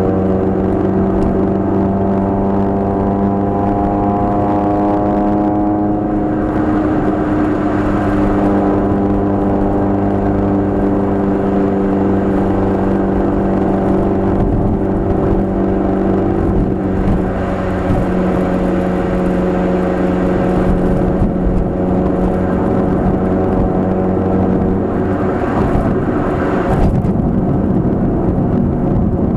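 Nissan March 12SR's 1.2-litre four-cylinder engine, through a Kakimoto aftermarket exhaust, droning steadily inside the cabin while driving. Its pitch rises a little over the first few seconds, then holds at a steady cruise. Near the end the engine note drops away under road noise.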